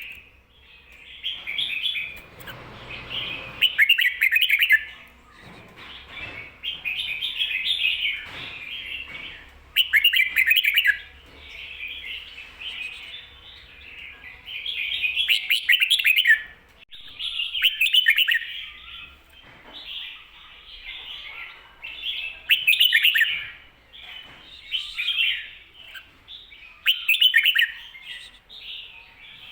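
Red-whiskered bulbul singing short, quick, chirpy phrases over and over, roughly one every two seconds. This is the doubled 'ko-ta-ra' phrase, the 'เบิ้ล' (double) song that bulbul keepers prize.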